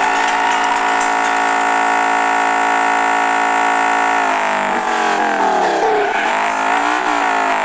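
Honda Integra Type R's K20A 2.0-litre inline-four engine running loudly at steady revs, then about four seconds in the revs fall away and waver up and down.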